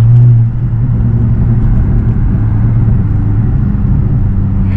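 BMW E92 335i's N54 inline-six, converted to a single turbo with full bolt-ons, droning at low, steady revs, heard from inside the car. The note rises slightly, then falls back and gets quieter about half a second in.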